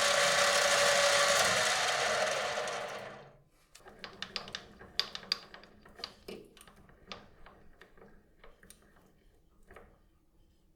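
A workshop power tool's motor runs steadily, then spins down and stops about three seconds in. Light, irregular clicks and taps follow as small metal and wooden parts are handled.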